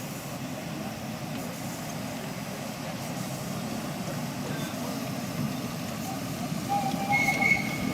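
Miniature railway locomotive running, a steady rumble that slowly grows louder, with two brief high tones near the end.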